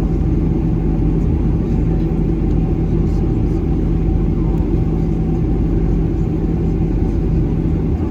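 Steady cabin rumble of a Boeing 737-800 with its engines at low power while taxiing, with a steady low hum that drops out near the end.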